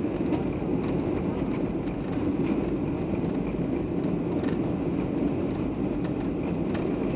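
Steady rumble of jet engines and rushing air heard inside an airliner cabin, with a few faint clicks and rattles.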